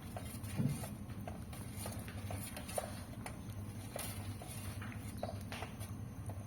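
Irregular small clicks and taps of a meal at the table, spoons knocking on bowls and chewing, over a low steady hum, with one duller knock about half a second in.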